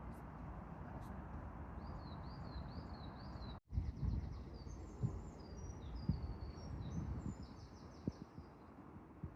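Small songbirds singing high chirping phrases over steady outdoor background noise. First comes a run of repeated short notes, then, after an abrupt cut about three and a half seconds in, a busier warbling song, with low wind thumps on the microphone.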